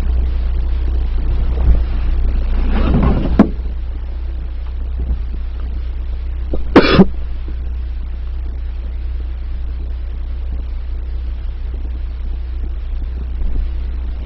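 Steady low rumble of a car on the move, heard from inside. Near the middle a person coughs once, and a few seconds earlier there is a short swell of noise ending in a sharp click.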